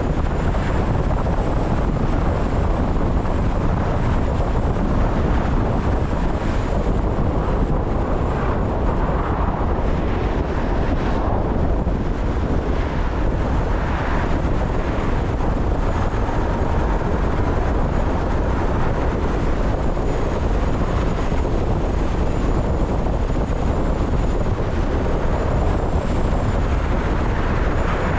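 A car driving on rain-wet city streets: steady road and tyre noise with the low hum of the car, constant throughout.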